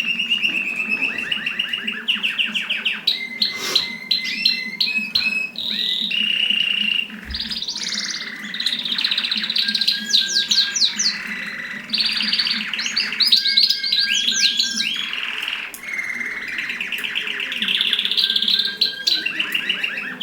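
Mosaic canary singing a continuous song of rapid trills and rolling repeated-note phrases, switching pitch and pattern every second or two.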